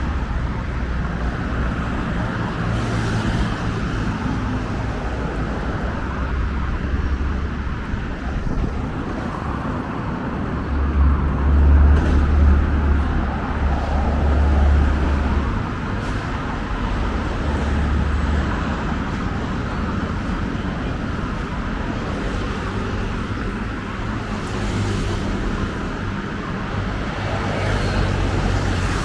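Steady road traffic on a busy city street. A vehicle's low engine hum swells louder for a few seconds near the middle as it passes close by.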